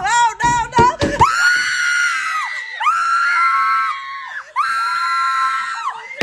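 High-pitched screaming: a quick run of short, rising-and-falling cries, then three long, level screams of about a second and a half each, with short breaks between them.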